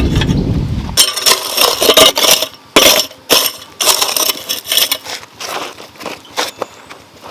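A run of sharp clinks and scrapes of hard objects knocking together, irregular and a few a second, thinning towards the end. A low rumble runs under the first second and then stops.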